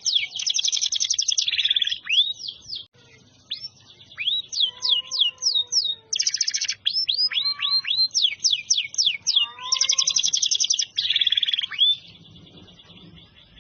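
Domestic canary singing a long, fast song of rapid trills and repeated down-sweeping notes, with short pauses between phrases, stopping about twelve seconds in.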